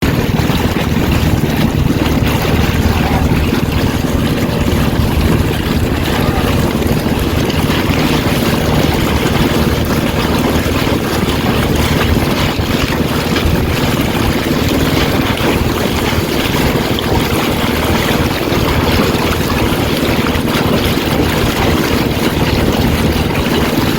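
A boat under way: a steady rush of wind and water with a low, steady hum underneath, and wind buffeting the microphone.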